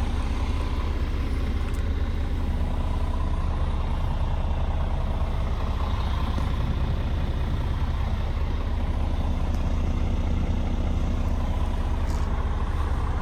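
Scania P 410 truck's 13-litre straight-six diesel engine idling steadily, a low even rumble with a few faint ticks.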